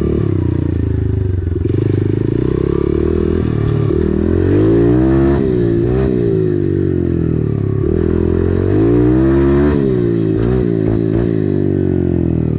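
Motocross dirt bike engine running under a rider on a trail, revving up and dropping back several times as it is shifted through the gears.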